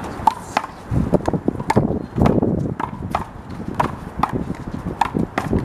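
A one-wall handball rally: the big blue rubber ball smacked by hands and hitting the wall and the court, a quick, uneven series of sharp smacks with a short ping.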